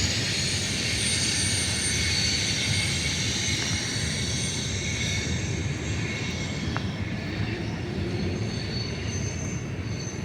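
Mixed freight cars of a BNSF manifest train rolling past on the rails: a steady rumble with thin, high wheel-squeal tones over it, slowly fading.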